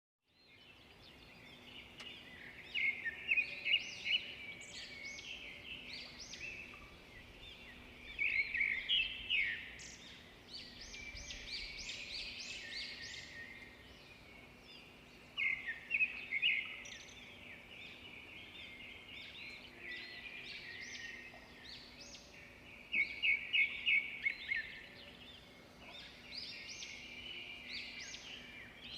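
Bird calls: a burst of rapid, high chirps about every seven seconds, four times, with softer chirping between.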